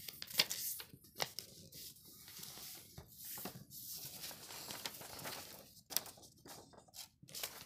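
A sheet of paper being handled and folded, rustling and crinkling, with several short sharp crackles as folds are pressed into it.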